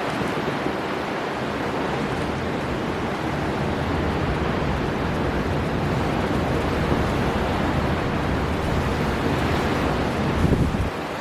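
Storm wind and heavy surf on the coast: a dense, steady rushing noise that builds slightly, with a brief louder gust about ten seconds in before it eases off.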